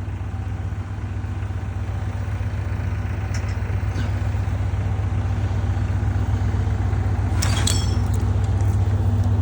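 An engine idling steadily with a low hum, slowly growing louder, with a brief clatter about seven and a half seconds in.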